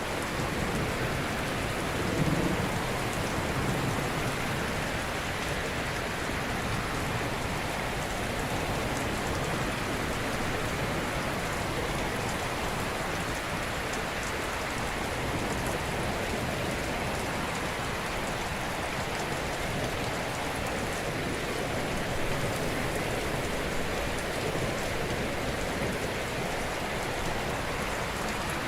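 Ocean surf washing in a steady, dense hiss, a little fuller and louder a couple of seconds in.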